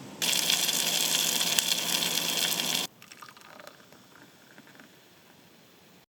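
Heavy rain pouring down, a loud rushing of water that cuts off suddenly after about two and a half seconds, followed by faint spatters.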